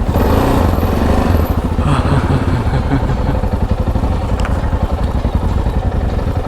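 Motorcycle engine running steadily, heard on board the bike while it is ridden.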